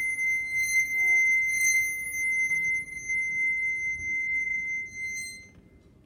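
A rod rubbed along its length with rosin, singing in longitudinal vibration. It holds one steady high-pitched tone with overtones, then stops about five and a half seconds in.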